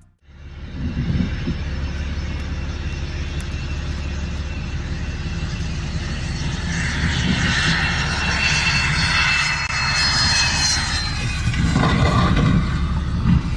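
Jet airliner engines running loud and steady, with a high turbine whine coming in through the middle.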